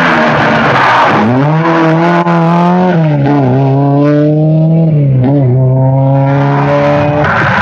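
Rally car engine at full throttle: the note rises about a second in and holds high, with two brief dips as the driver changes gear or lifts off, then cuts off abruptly near the end.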